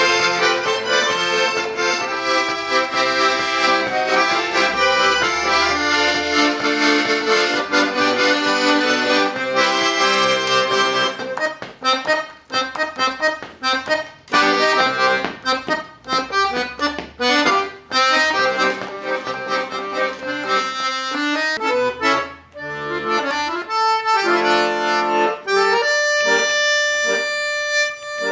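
Accordion playing a tune with bass accompaniment. It starts as a flowing, connected melody, changes to short detached chords about eleven seconds in, and ends on longer held chords.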